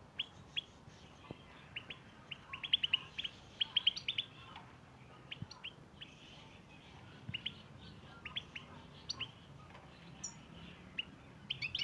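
European goldfinches chirping and twittering: short, sharp chirps in irregular quick clusters, densest a few seconds in.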